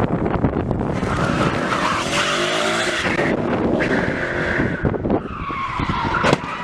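Car tyres squealing and skidding under hard braking or sliding, over a running engine whose pitch rises and falls, with a sharp bang about six seconds in.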